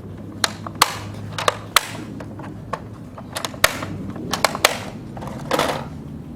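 Sharp plastic clicks and knocks from the toy race launcher case being handled, about eight or nine separate clicks, some in close pairs, then a short scraping rustle near the end.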